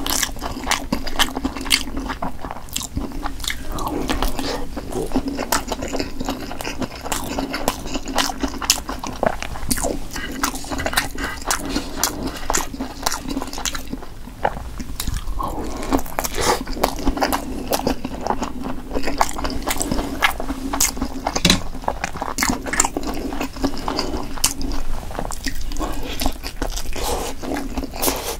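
Close-miked chewing and biting of Korean blood sausage (sundae), a steady run of many small clicks and crunches.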